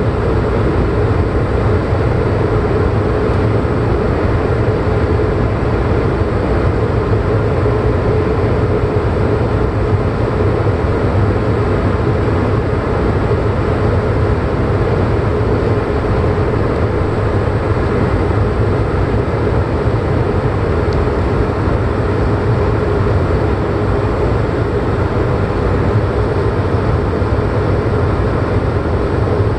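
Light propeller aircraft in flight: the engine and propeller drone steadily, mixed with airflow noise, with no change in power.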